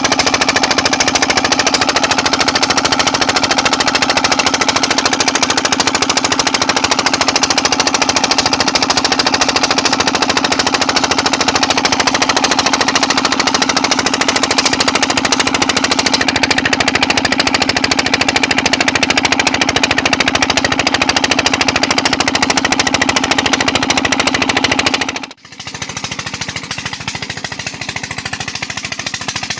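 Petter diesel engine driving a tube well, running steadily with a fast, hammering beat. About 25 seconds in it cuts out for an instant, then carries on noticeably quieter.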